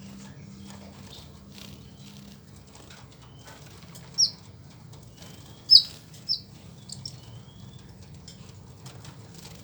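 A crowd of caged sunbirds fluttering and chirping, with short high chirps. Three sharp, loud chirps come about four to six seconds in.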